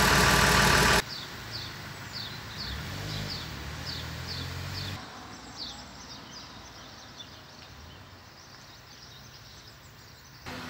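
About a second of loud bus engine noise heard from inside the cabin, cut off abruptly. It gives way to birds chirping in short, falling chirps, about two a second, over a low steady hum. After a few seconds the chirps thin out and everything is fainter.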